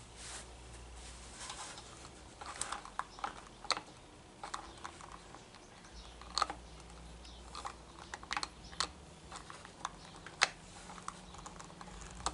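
Light, irregular plastic clicks and taps as a string trimmer's bump-feed head is handled and turned by hand.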